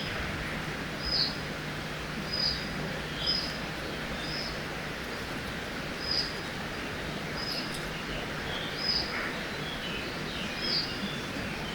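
Forest birdsong over the steady rush of a river. One bird repeats a short high call every second or two, and other birds chirp more softly between its calls.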